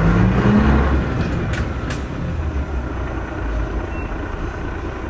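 Mitsubishi Fuso Aerostar KC-MP317M city bus engine pulling away, heard from inside the bus: the pitch rises for about a second, drops as it shifts up, then runs steadily under way. A couple of light clicks or rattles come just before the two-second mark.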